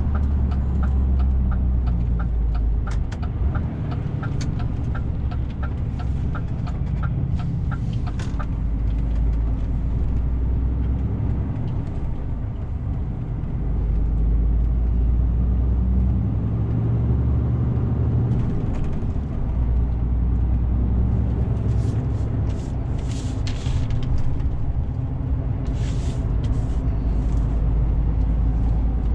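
DAF CF 450 truck's diesel engine running steadily as heard from the cab while driving. For the first eight seconds or so a turn signal ticks about twice a second. In the second half there are several short hisses.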